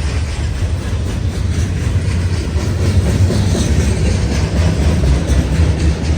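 Long CN freight train's cars rolling past at close range: a loud, steady rumble of wheels on rail with light clicking as the wheels cross rail joints.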